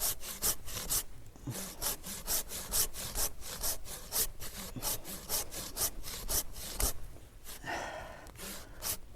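Hand pruning saw cutting through an olive branch in fast back-and-forth strokes, about three a second. The strokes pause about seven seconds in for a brief rustle, then resume with a few more.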